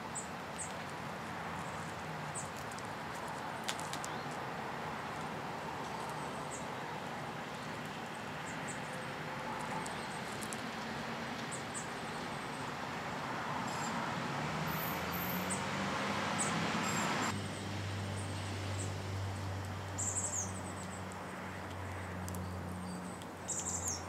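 Outdoor backyard ambience: a steady background hiss with scattered short, faint chirps of small birds. A low steady engine hum sets in about two-thirds of the way through.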